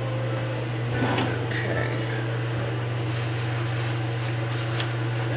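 Steady low hum, as of a motor or mains hum, with a couple of light knocks, about a second in and near the end.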